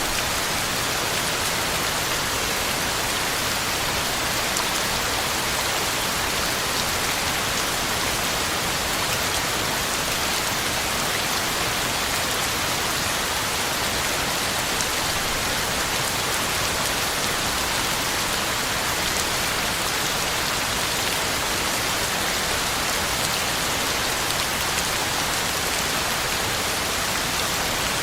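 Heavy rain falling steadily: a dense, even hiss of countless drops with faint individual drop ticks, unchanging throughout.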